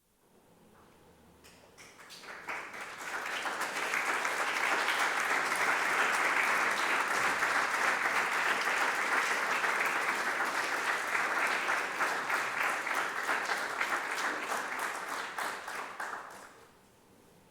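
Audience applause that builds over the first few seconds, holds steady, and dies away near the end.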